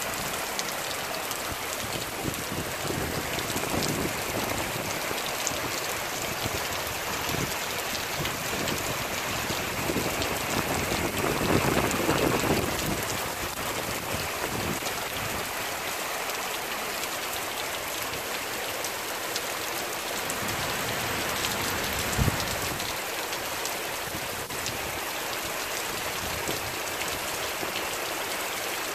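Heavy rain pouring onto a wet street and pavement: a dense, even hiss of drops. It swells louder for a couple of seconds about twelve seconds in, and there is one short thump a little after twenty seconds.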